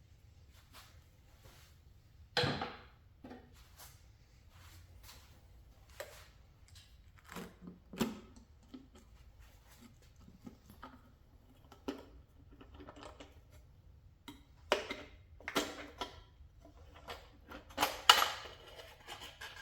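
Irregular metallic clinks and knocks of hand tools, bolts and a valve cover being handled while the valve cover comes off an engine, with the loudest knocks about two and a half seconds in and near the end.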